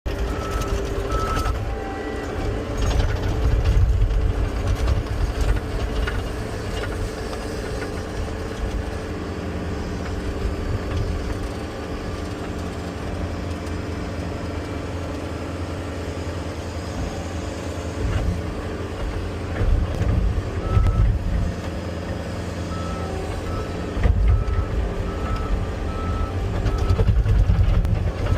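Diesel engine of a John Deere compact track loader working, its rumble swelling and easing as the machine loads. A reversing alarm beeps briefly near the start, then steadily about once or twice a second through the last several seconds.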